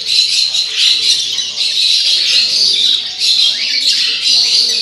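Many caged birds chirping and squawking at once, a dense, continuous chatter of high calls.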